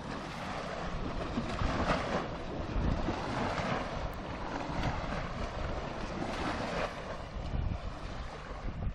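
Sea waves washing in, swelling and fading every few seconds, with wind rumbling on the microphone.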